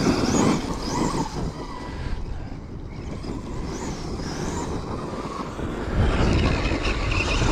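Electric RC monster truck (Kyosho USA-1) being driven on dirt, its motor whining up and down in pitch with the throttle over the crunch of tyres on dirt and stones, with a louder low rumble from about six seconds in.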